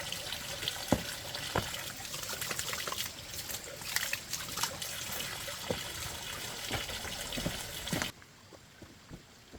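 Water running and trickling steadily with small splashes, cutting off suddenly about eight seconds in.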